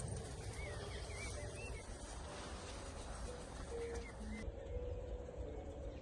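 Birds singing outdoors: short warbling phrases over a steady low rumble.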